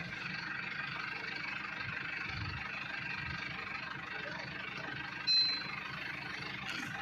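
Farm machinery engine running steadily, with a short high-pitched beep or whistle about five seconds in.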